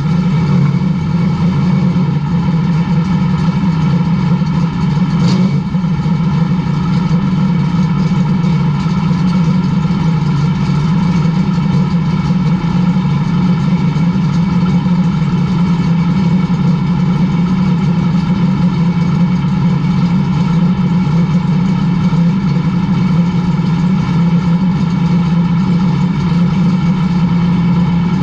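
Late model race car's V8 engine idling steadily, with no revving.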